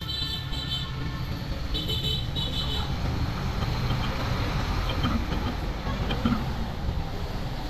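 A steady low mechanical rumble, with two pairs of short high beeps like a vehicle horn in the first three seconds.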